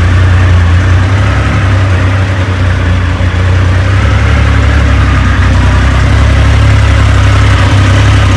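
Triumph motorcycle engine idling steadily.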